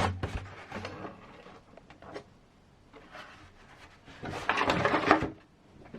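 Small plastic model parts handled on a workbench: scattered light clicks and rustling, with a louder stretch of rustling and clicking about four to five seconds in.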